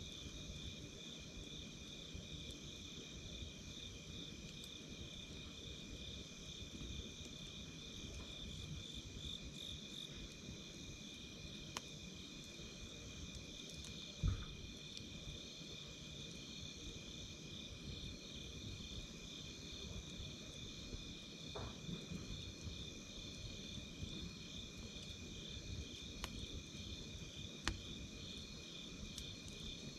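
Night insects chirping steadily in two high, continuous tones, one of them pulsing rapidly, over the low crackle of a wood campfire. A few sharp pops come from the fire, the loudest about fourteen seconds in.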